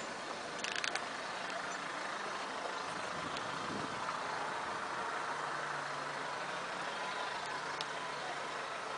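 A steady engine hum, with a few clicks about a second in and a low steady tone that comes in about halfway through.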